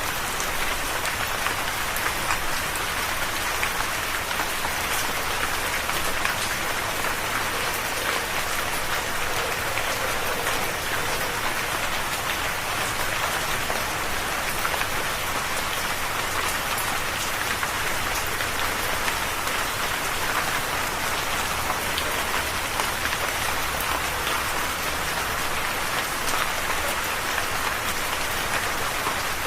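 Steady rain falling and pattering on a surface, an even hiss of drops with no let-up.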